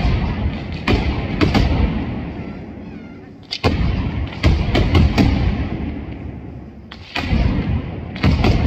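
Engraellat mascleta: heavy gunpowder charges laid on the ground going off one after another, about a dozen deep blasts in three bunches, each followed by a long echoing decay.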